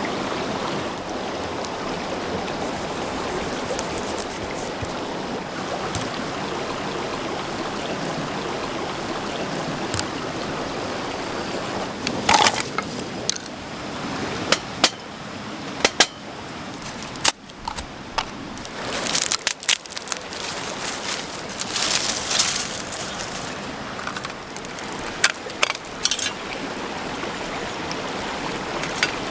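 Steady rushing water like a stream. Scattered sharp clinks and knocks come through the middle stretch, some of them ringing briefly.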